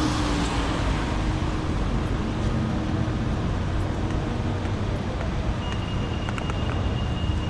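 Steady city street traffic: a continuous rumble of passing vehicles, with a thin steady high tone joining it about three-quarters of the way through.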